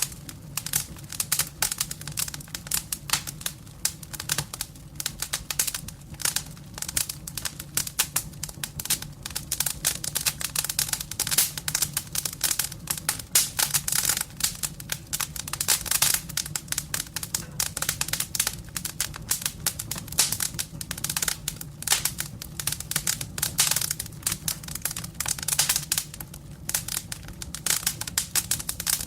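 Wood fire burning in a fireplace, crackling with dense, irregular snaps and pops throughout, over a steady low hum.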